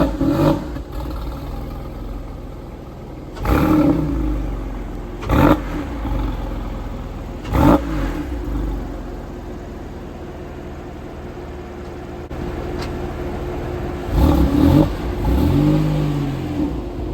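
2003 Porsche 996 Carrera 4S flat-six engine, fitted with an NHP exhaust crosspipe, idling between a series of short throttle blips: a few quick revs in the first eight seconds, then a couple more near the end.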